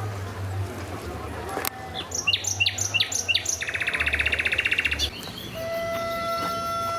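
Birdsong: a run of quick downward-sweeping chirps followed by a fast, even trill. Near the end a flute comes in on one long held note.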